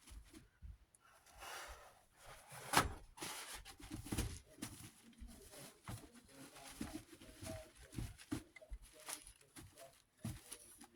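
Cloth wiping down a desk fan's base, with brief rubbing strokes and irregular light knocks and clicks as the parts are handled.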